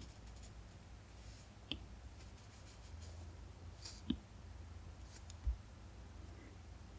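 Apple Pencil tip tapping and stroking on an iPad's matte screen protector while shading: a few faint, sharp clicks, about two and four seconds in, over a steady low hum.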